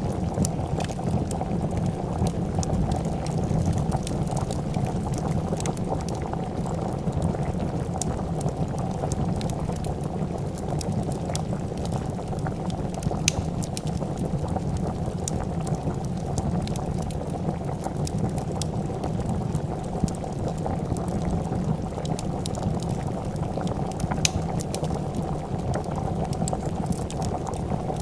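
A pot of soup bubbling at a steady boil, with scattered sharp crackles from a wood fire.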